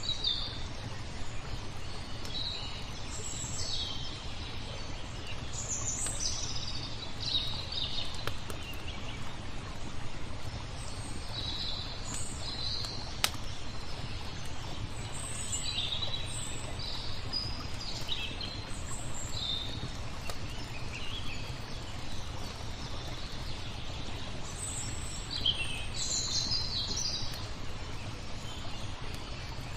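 Songbirds chirping in short, scattered calls over a steady low rumble. A few sharp crackles from a wood fire come through, the loudest about halfway through.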